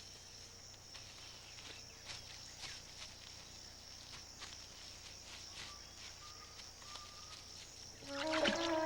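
Quiet marsh field ambience: a steady high hiss with scattered soft clicks and rustles, and a few short faint chirps about the middle. Orchestral music with woodwinds comes back in about eight seconds in.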